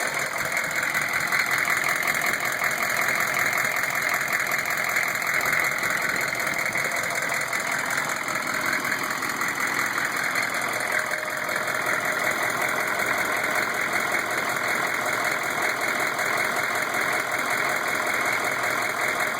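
Chevy 6.5-litre diesel V8 running steadily with a knock. The owner puts the knock at half crank speed and suspects the valve train, since oil flow to the rocker arms gets worse toward the rear of the engine.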